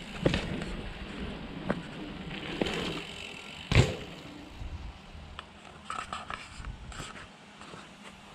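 Mountain bike rolling down a dirt trail: tyre noise over the ground with several sharp knocks and rattles from the bike, the loudest a hard knock about four seconds in.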